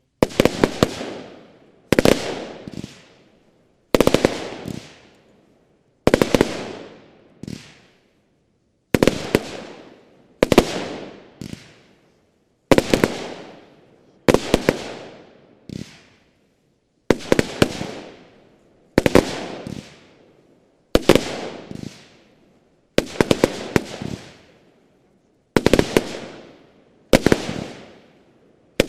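Lesli Big Mc Thunder 20 mm, 100-shot firework battery firing: loud groups of sharp bangs come roughly every second and a half to two seconds, each group tailing off before the next.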